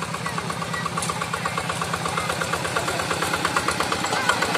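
Hand tractor's single-cylinder diesel engine running with a steady, rapid chugging beat.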